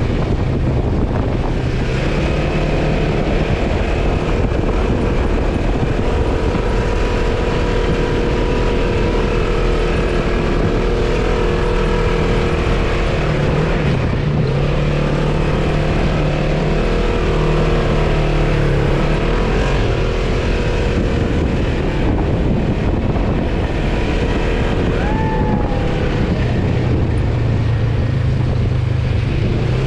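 Engine of an off-road vehicle running under way, its pitch shifting up and down with the throttle, with wind rumble on the microphone.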